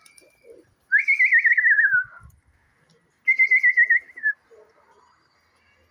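A person whistling two loud trilled phrases, each about a second long, with a fast warble in pitch; the first drifts slightly downward.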